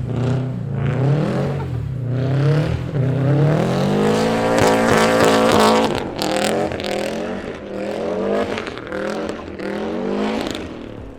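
Rear-wheel-drive-converted Subaru Legacy's engine revving hard and repeatedly while drifting in snow, its pitch climbing and dropping over and over, with a long climb midway.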